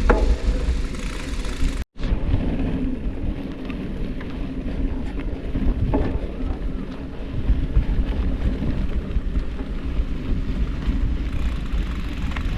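Wind buffeting the microphone as a steady, noisy low rumble, broken by an abrupt cut about two seconds in.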